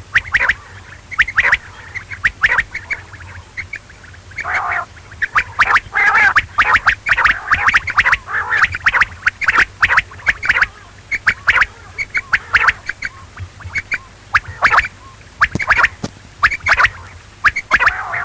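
Quail calling: short, sharp notes repeated in quick, uneven runs with brief pauses between them.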